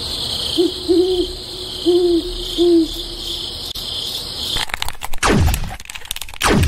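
Night ambience of crickets chirping steadily, with an owl hooting several times in the first three seconds. About two-thirds of the way in this cuts out and loud repeated falling swooping sounds take over.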